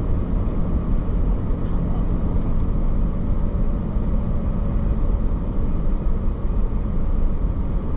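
Steady road noise of a car driving at speed, tyre rumble and engine, heard from inside the cabin.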